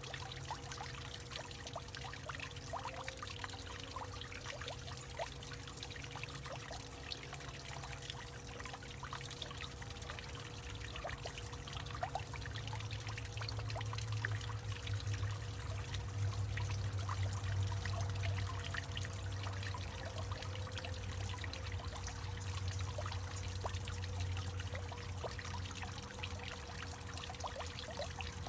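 Water trickling and pouring with many small drips and splashes, most likely running into or through a hollowed-out tree. A low rumble under it grows louder about halfway through.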